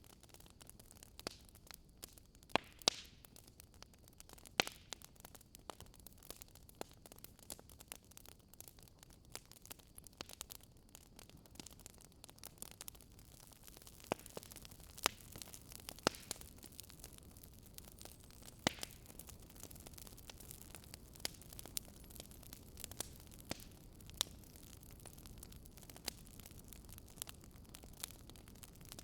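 Campfire crackling: burning wood giving off irregular sharp pops and snaps over a faint steady hiss, with a few louder pops about three seconds in and again about halfway through.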